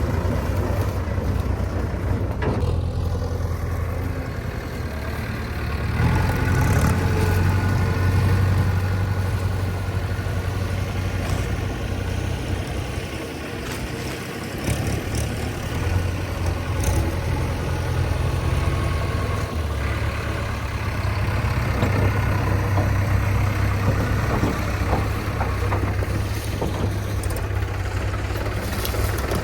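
Heavy diesel engine running steadily, its loudness rising and falling with load: louder about six to nine seconds in, easing off around thirteen seconds, then louder again from about twenty seconds.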